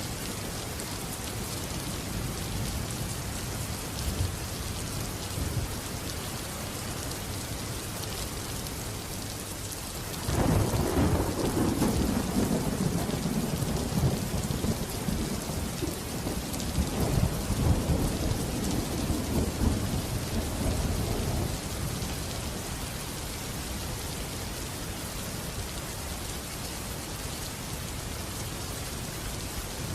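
Steady heavy rain, with a peal of thunder breaking in suddenly about a third of the way in and rumbling for around ten seconds before dying away into the rain.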